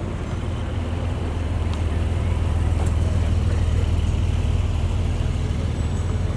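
A car engine running at low revs, a steady low rumble that swells a little in the middle and eases toward the end.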